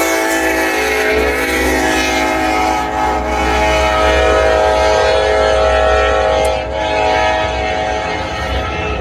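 Air horn of an EMD SD70ACe diesel locomotive sounding one long, steady chord that fades about seven seconds in, over the low rumble of the passing train.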